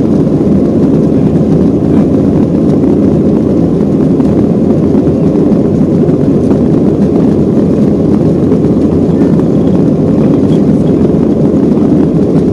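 Boeing 737-800 jet engines and rushing air heard from inside the passenger cabin: a loud, steady, even roar that does not change.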